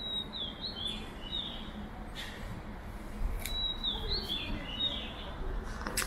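A songbird singing two short phrases of high, quick, downward-curving whistled notes, about three seconds apart, over a steady low street hum, with a few sharp ticks, the strongest near the end.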